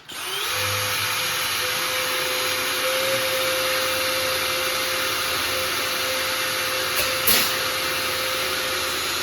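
A motorised shop tool running steadily. It spins up at the start, then holds one steady tone over a wide hiss. There is one short, sharp noise about seven seconds in.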